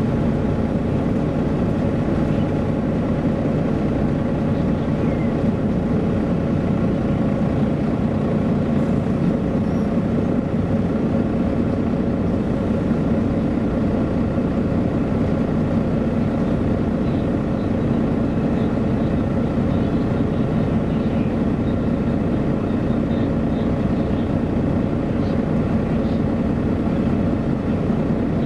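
Engine of a MAN A23 NG313 articulated city bus running steadily, a constant drone heard from inside the passenger cabin.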